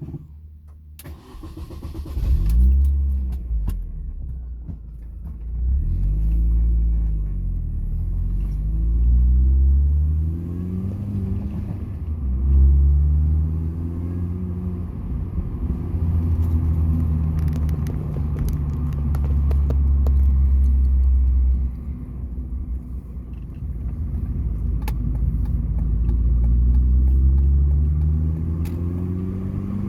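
Mini Cooper S R53's supercharged 1.6-litre four-cylinder engine pulling away and accelerating through the gears. Its pitch rises and then drops at each gear change, several times over, with steadier cruising stretches in between.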